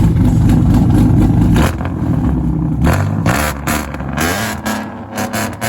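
Car engine revving hard, loud for about the first second and a half, then dropping off before rising in pitch again with another rev.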